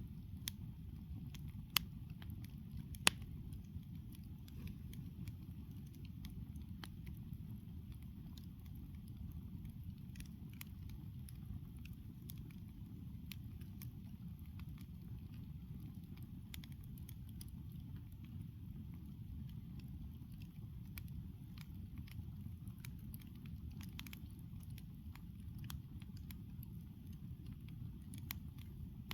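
Campfire burning, the wood crackling and popping irregularly over a steady low rumble, with two sharper pops in the first few seconds.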